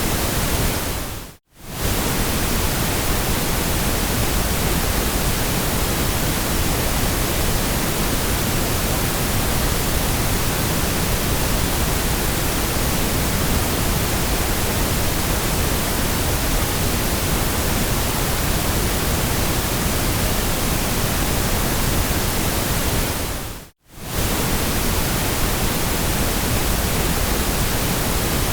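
Steady, even white-noise hiss that drops out briefly to silence twice, about a second and a half in and again near the end.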